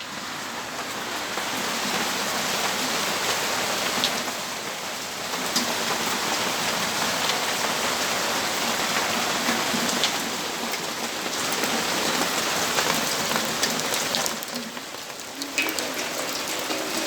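Steady rainfall heard from a balcony: an even hiss of rain with many separate drops tapping on hard surfaces, swelling and easing a little every few seconds.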